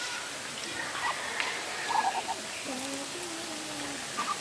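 Eating sounds: scattered small crunches and mouth clicks from chewing crispy bagnet (deep-fried pork belly) with rice, over a steady outdoor hiss. A few short high chirps come about two seconds in.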